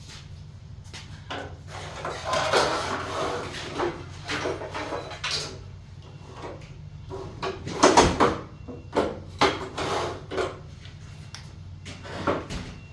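Hard objects being handled: irregular knocks and clatter with a stretch of scraping, the loudest knocks about eight seconds in, over a steady low hum.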